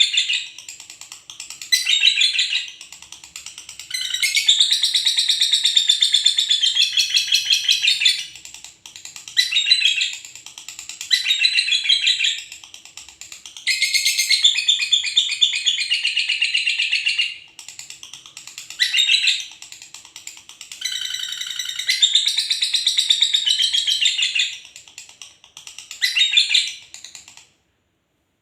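A pair of lovebirds chattering noisily in bursts of rapid, high-pitched chirps, each burst one to four seconds long with short pauses between. The chattering stops near the end.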